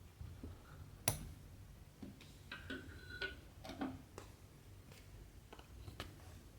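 Close handling sounds of cross-stitching: a needle and cotton thread worked through fabric. A sharp tick about a second in, then a run of soft clicks and short scrapes with a brief thin squeak near the middle, and a few more ticks near the end.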